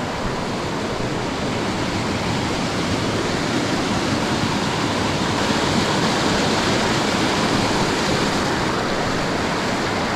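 A stream rushing steadily, a loud even water noise that swells slightly near the middle.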